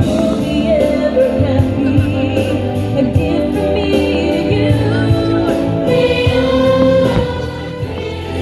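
Choir singing over orchestral music, the soundtrack of a fireworks show.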